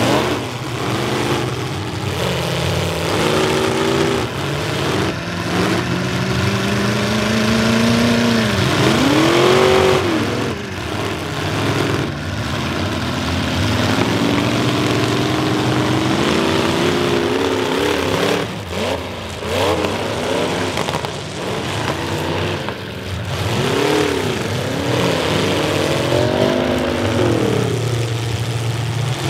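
Several demolition derby cars' engines revving up and down together as the cars ram and shove one another, with a few sharp crashes of metal on metal in the middle of the stretch.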